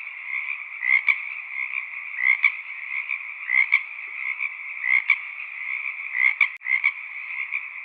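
A chorus of frogs calling: a steady trilling with a louder call coming about every second and a quarter. The sound drops out for an instant near the end.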